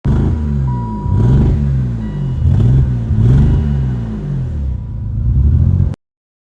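Car engine being revved repeatedly, its pitch rising and falling about four times before cutting off abruptly. The engine has a misfire that the owner puts down to low fuel pressure, which he suspects comes from a clogged fuel filter.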